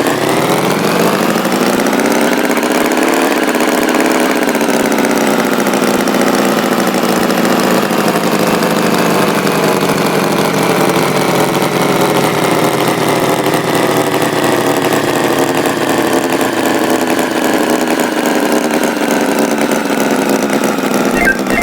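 Tractor engine running steadily. Its pitch climbs over the first few seconds, then slowly sinks.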